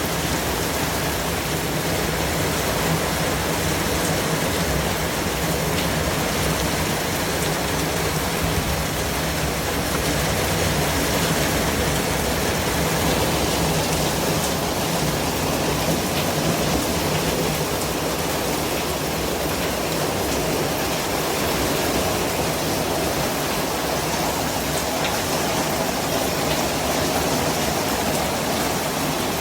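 Steady white noise: an even, unchanging rush like heavy rain or a waterfall, spread evenly from low to high pitches.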